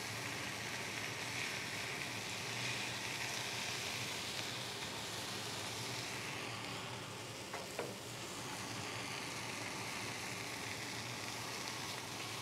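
Salmon sizzling steadily on a hot flat-top griddle while a spatula works under it to lift the skin off, with two light metal clicks of the spatula on the griddle plate about two-thirds of the way through.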